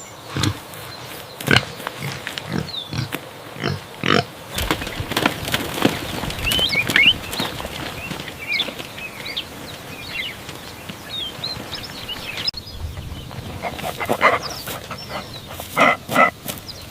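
Pigs grunting in short, irregular bursts, with birds chirping behind them from about five seconds in. The sound changes abruptly about twelve seconds in, and louder grunts follow near the end.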